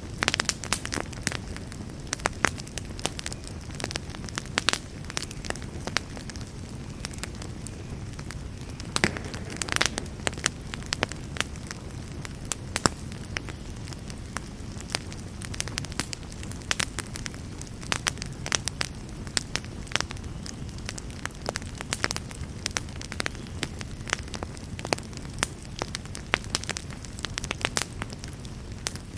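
Wood campfire burning, with irregular sharp pops and crackles several times a second over a low steady rumble of the flames.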